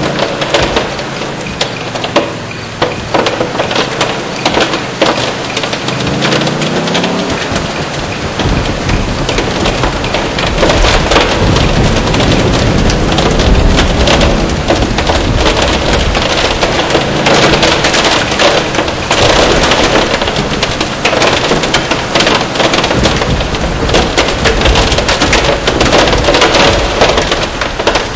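Heavy rain and hail pelting a car's body and windshield while driving, a dense rattle of sharp hailstone impacts over a roar of rain. It grows louder about ten seconds in.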